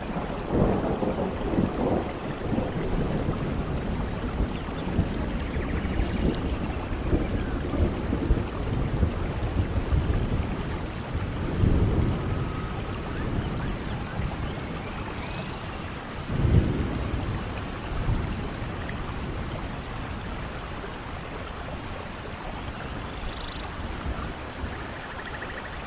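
Steady rain with thunder rumbling several times, loudest about twelve and about sixteen seconds in.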